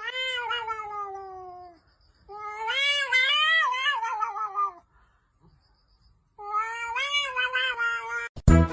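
A cat giving three long, drawn-out meows: the first slides down in pitch, the second wavers up and down, the third is held fairly level.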